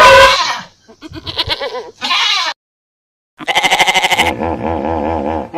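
A bleating farm animal: two short bleats, a silent gap, then one long wavering bleat.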